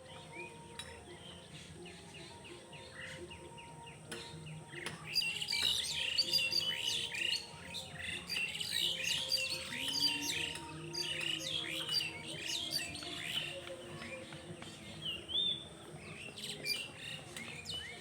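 Birds chirping: a dense run of quick, high chirps that grows louder about five seconds in.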